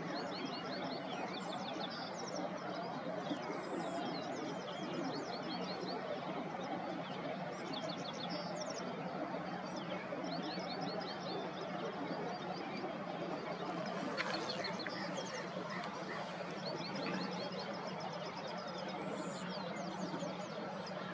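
Songbirds singing: repeated runs of quick, high chirps every couple of seconds, over a steady low hum and background noise.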